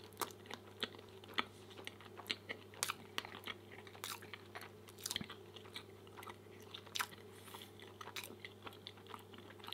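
Close-miked chewing of a mouthful of pancake with raspberries and whipped cream: soft, irregular wet mouth clicks and smacks, a few a second.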